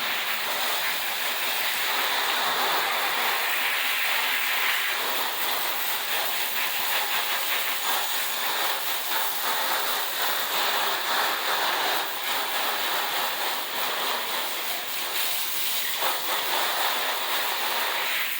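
Water spraying onto a bicycle, rinsing off the bike-wash cleaner. It makes a steady hiss that wavers a little in level as the spray moves over the frame.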